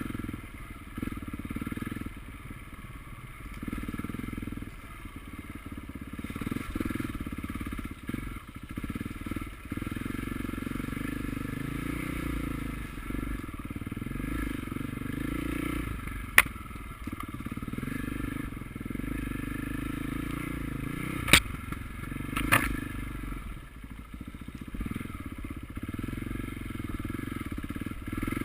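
Motocross bikes' engines running and revving, their pitch rising and falling as they work. Three sharp knocks cut through, about two-thirds of the way in, the middle one the loudest.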